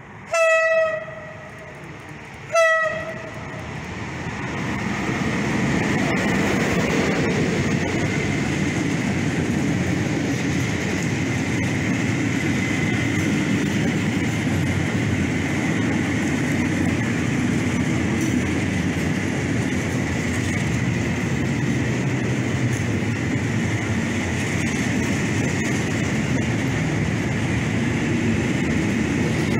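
ET42 electric freight locomotive sounding its horn twice, a longer blast then a short one, about two seconds apart. Then its train of ballast hopper wagons rolls past close by with a loud steady rumble of wheels on rail and a thin high tone over it.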